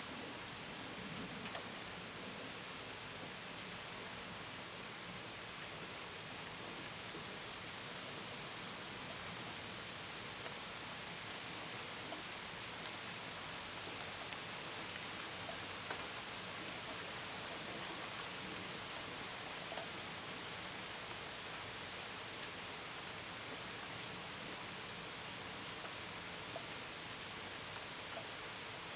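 Steady gentle rain with a scattered pitter-patter of drops, and crickets chirping in a steady, high-pitched pulsing trill behind it.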